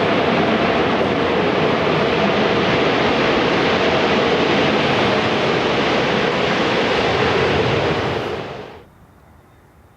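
Jet airliner engines heard at close range, a loud steady noise with a low hum in it, fading out quickly a little before the end.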